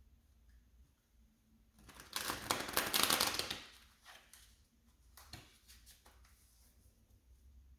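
A deck of tarot cards being shuffled: a dense burst of rapid card flutter lasting about two seconds, starting about two seconds in, followed by a few soft card taps.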